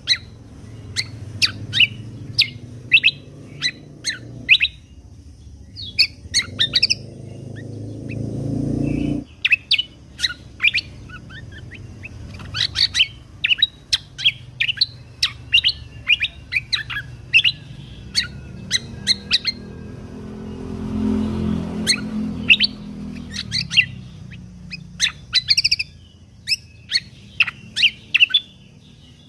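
Kecial kombok (cucak kombo) songbird singing a rapid run of short, sharp chirps and whistled notes, one after another with brief gaps. A low rumble rises beneath the song for the first nine seconds and again a little past the middle.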